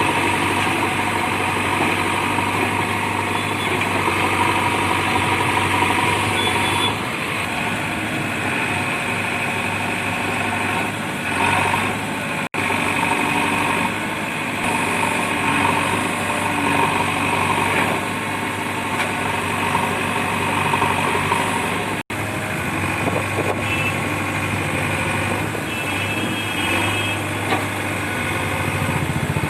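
Heavy diesel engines of a JCB backhoe loader and a loaded truck running steadily while working in mud. The sound breaks off for an instant twice.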